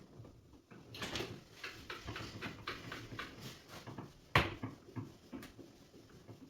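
Irregular clicks and knocks of hands working on parts, with one sharp, loud knock a little past the middle.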